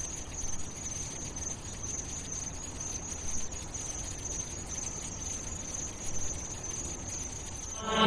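Crickets chirping: a steady high trill over a low rumble. Music starts right at the end.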